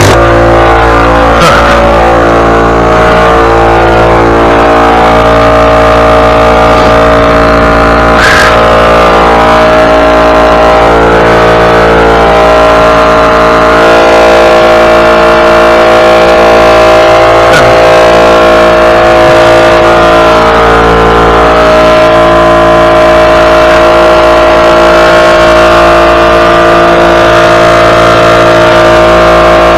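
Small gasoline engine running steadily at constant speed, loud and close. It is likely a lawn mower or a wood chipper.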